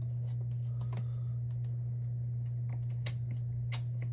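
Scattered light clicks and taps of a plastic Lasko 3733 box fan being handled and its switch set, over a steady low hum.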